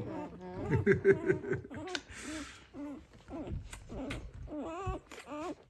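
Five-day-old Doberman puppies whimpering and squeaking in short, wavering calls while they jostle at the nursing mother, with a brief hiss about two seconds in.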